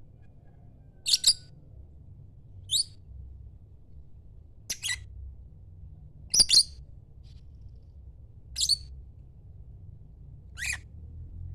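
Lovebird giving short, shrill, high-pitched calls, six of them about two seconds apart, over a faint low rumble.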